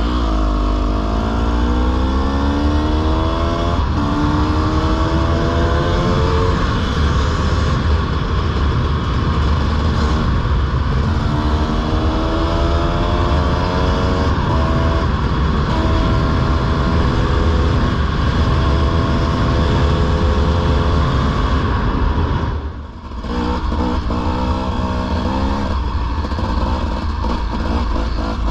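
Dirt bike engine under way on a trail, its pitch climbing and dropping back again and again as the rider works the throttle and shifts, with a heavy low rumble underneath. About 23 s in it drops away briefly, then picks up again.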